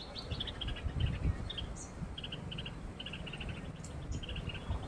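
Tailorbird calling: quick clusters of short, high chirps repeated several times a second, with a low rumble underneath.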